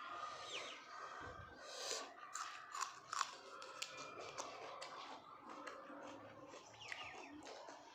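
A person chewing and crunching meat close to the microphone, with many small, irregular crunches.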